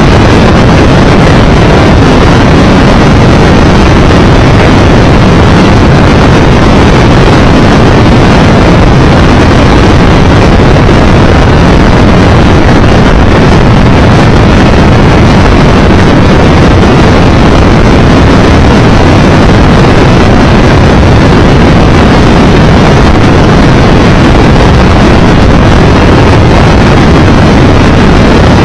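Loud, steady wind rush on the microphone of a motorcycle riding at road speed, the Triumph 1200 Tiger Explorer's engine and tyre noise buried under it.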